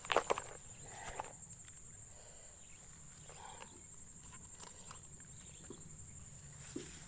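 Steady high-pitched insect chirring, typical of crickets, with a loud clatter just after the start and a few scattered knocks and rustles.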